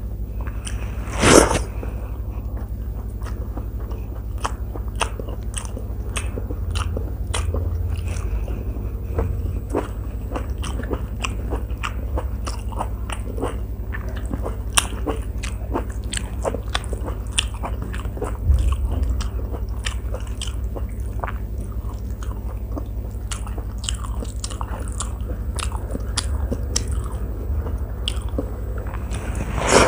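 Close-miked chewing and mouth sounds of a person eating by hand, many small wet clicks and crunches throughout, with a steady low hum underneath. A louder sudden sound comes about a second in and again at the very end.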